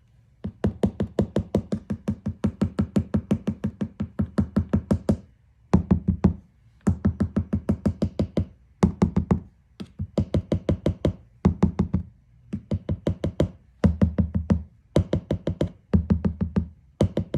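Rapid knocking on a plastic riot shield, about six strikes a second, in short bursts a second or two long with brief pauses between them.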